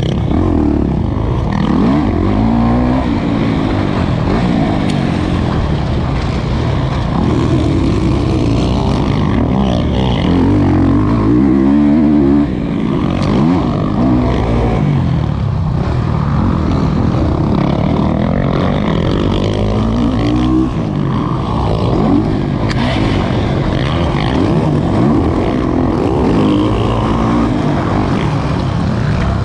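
Kawasaki KX450's four-stroke single-cylinder motocross engine under hard riding, revving up and falling back over and over as the throttle is worked, the pitch rising and dropping every couple of seconds.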